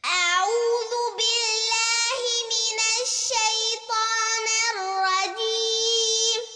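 A young girl reciting the Quran in a melodic chant, one long unbroken phrase with sustained, ornamented notes and a few brief breaks, trailing off into an echo near the end.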